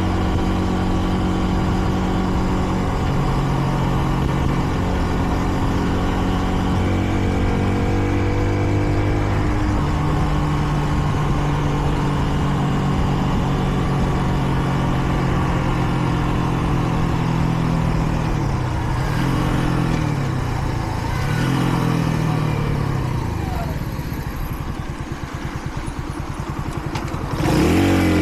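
Kreidler Dice CR 125's 125 cc single-cylinder engine running under way, its pitch stepping between steady stretches. About three-quarters of the way through the pitch wavers and falls as the throttle eases off, then the engine revs up sharply near the end.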